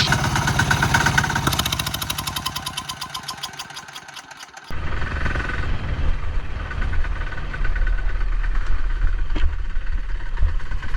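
Small mini bike engine running with rapid, even firing pulses that fade steadily as it moves away. About four and a half seconds in, the sound cuts abruptly to a steady low rumble.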